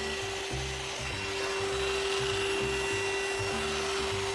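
Scott Miller SM-V7000 cordless stick vacuum running with a steady whine and rushing air, its dust mite brush being drawn over a mattress.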